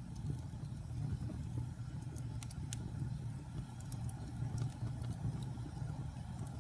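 Wood fire burning in a fireplace: a steady low rumble with sharp crackles and pops at irregular moments.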